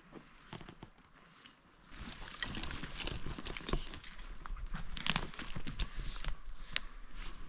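Metal climbing and rigging hardware clinking and jangling in irregular clicks, with rustling, starting about two seconds in.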